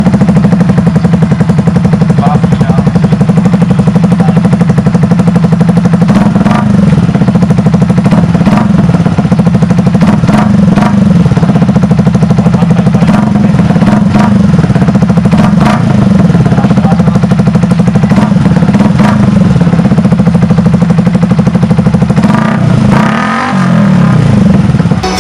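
Motorcycle engine running through an SC Project aftermarket muffler, idling with a fast, even exhaust pulse. Repeated throttle blips make the pitch rise and fall every few seconds, with a bigger rev near the end.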